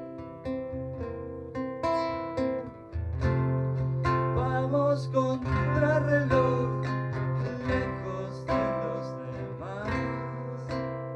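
Acoustic guitar music, plucked and strummed, with a steady low bass note coming in about three seconds in.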